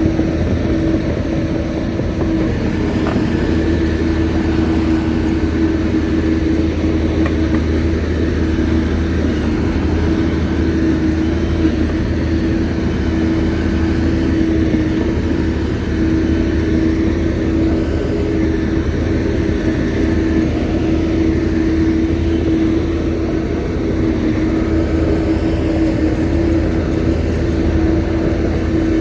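Shantui bulldozer's diesel engine running steadily, a constant low drone with a steady hum above it.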